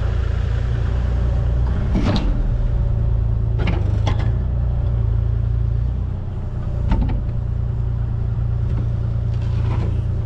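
Heavy equipment diesel engine running steadily with a low drone, with a few sharp metallic clanks, the first about 2 seconds in and another near 7 seconds.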